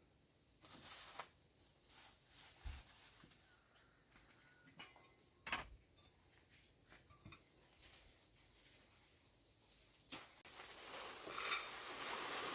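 Insects chirring steadily in a high, even drone, with a few faint knocks and some rustling near the end.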